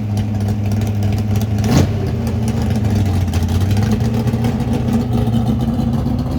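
A car engine idling steadily with a low, even hum, with one short sharp sound about two seconds in.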